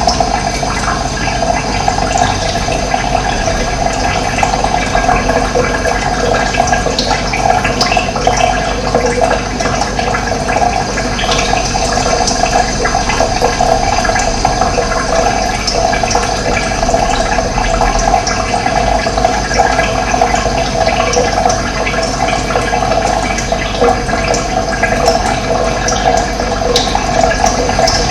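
Running water: a steady rushing flow, loud and unchanging throughout.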